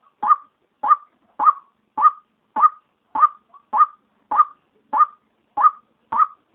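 White-breasted waterhen (ruak-ruak) female call, used as a lure call: a short, sharp note repeated steadily about every 0.6 seconds, around eleven calls, each sweeping up at its start.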